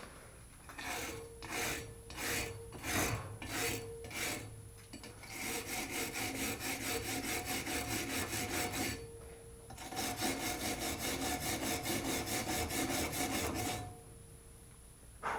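Hand wire brush scrubbing rust off an old metal tractor wrench: a handful of separate scraping strokes at first, then fast continuous back-and-forth scrubbing in two long runs with a short pause between, stopping near the end.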